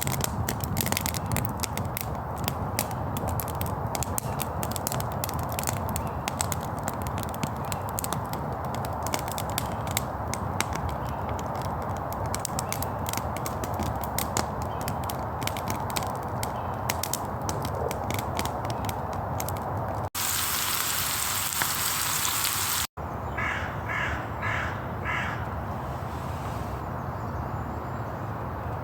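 Crows cawing, about five caws in quick succession, near the end of a stretch that opens with about twenty seconds of dense crackling and then a short loud hiss.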